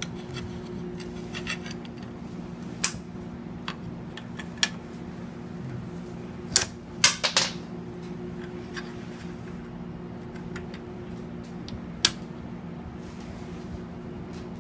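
Scattered sharp clicks and knocks of metal parts being handled and bolted together, with a quick cluster of them about seven seconds in, over a steady low hum.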